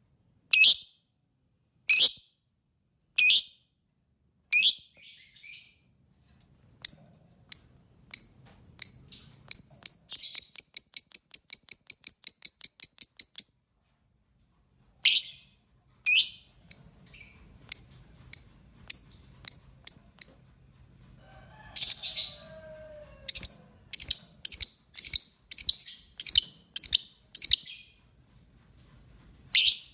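Lovebird calls played as a trapping lure: sharp, shrill, high chirps spaced about a second apart, breaking into a fast run of about six chirps a second around ten seconds in, then more chirps after a short pause.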